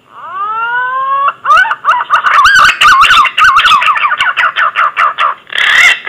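Green pigeon (punai) song played as a hunter's lure call: a long whistle gliding up, then a fast run of warbling whistled notes, about five a second, ending in two louder, harsher notes.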